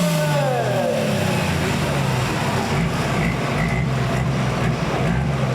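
Diesel engine of a pulling vehicle, its pitch falling over the first second as it comes off the throttle, then running with a steady low drone and rumble.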